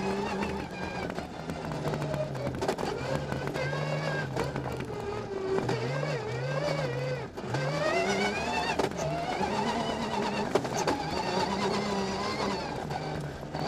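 Rally car engine heard from inside the cabin at speed, revving up and dropping back again and again as it is driven through the gears, with a sharp dip about seven seconds in.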